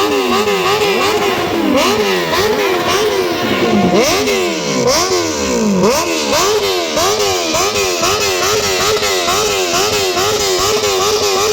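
BMW S1000RR inline-four engine through an Akrapovic GP exhaust, loud, revved in quick repeated throttle blips, its pitch jumping up and dropping back again and again, with a few longer falls in revs in the first half.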